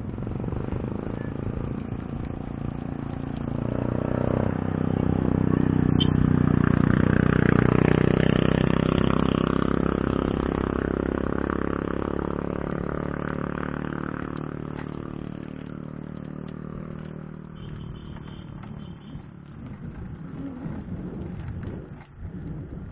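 A motor vehicle's engine passing by: it grows louder over a few seconds, is loudest about a third of the way in, then slowly fades away.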